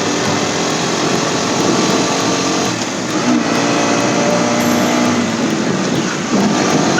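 Motorcycle engine running while riding, under a loud steady rush of wind over the microphone; the engine's pitch shifts a little midway.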